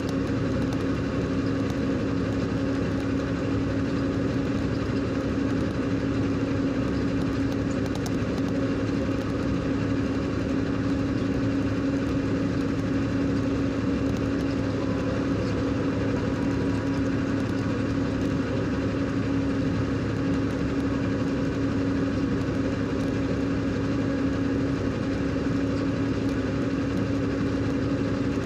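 Truck engine running steadily, an even drone with a constant hum and no change in pitch or loudness.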